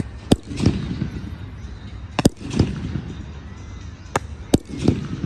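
Low-noise display fireworks going off: four sharp cracks, the last two close together, each followed a moment later by a lower, duller boom that trails off.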